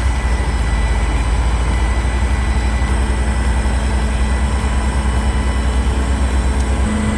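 A large engine running steadily with a low drone and a fast, even throb; its tone shifts just before the end.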